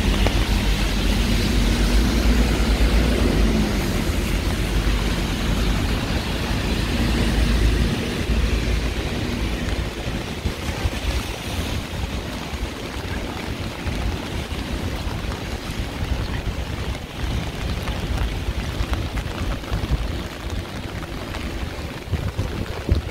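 Heavy rain falling on a city street, a steady hiss throughout. A vehicle's engine rumbles past over the first several seconds and fades about a third of the way in.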